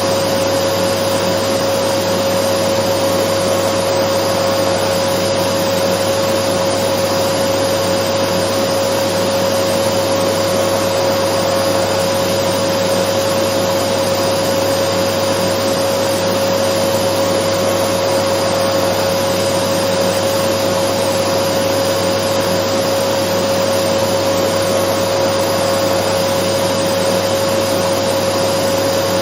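Dyson vacuum cleaner running steadily: a constant rush of air with a steady whine held on one pitch.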